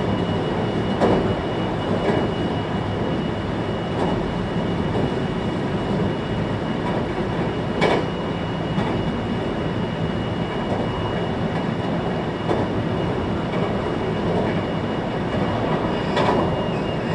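Running noise of a 521-series electric multiple unit heard from inside the passenger car: a steady rumble of wheels on rails, broken by a few sharp clacks over rail joints. A thin high whine runs beneath it and fades out near the end.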